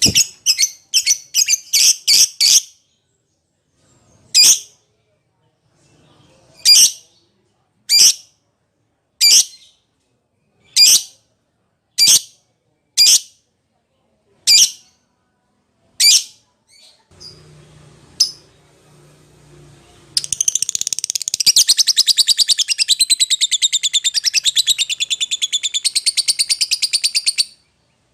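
Lovebird calling: a quick run of sharp, shrill calls, then single calls about every second and a half, and from about twenty seconds in a long, rapid chattering trill lasting some seven seconds. These are the calls a lovebird makes to challenge a rival or call its companion.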